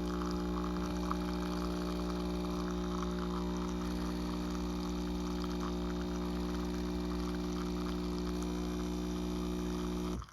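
Philips L'Or Barista capsule machine's pump running with a steady hum as water flows into the cup, cutting off abruptly about ten seconds in.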